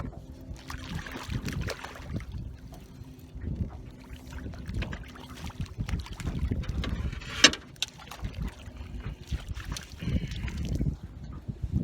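Wind buffeting the microphone aboard a small fishing boat, with irregular low rumbles and scattered knocks and rustles. One sharp click stands out about seven and a half seconds in.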